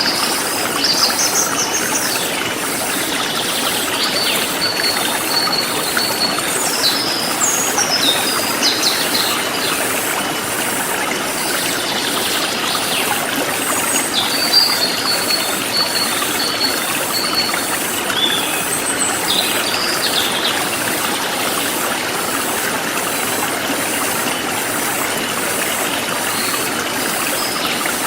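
Forest stream flowing steadily, with birds chirping over it through the first two-thirds: short trills and calls that sweep down in pitch.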